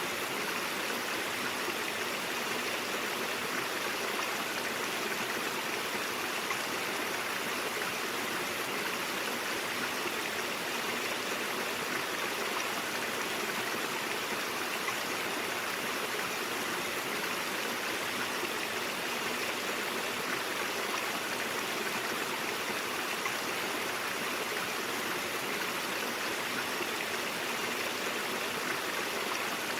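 Brook water flowing steadily, an even rushing sound with no breaks or changes.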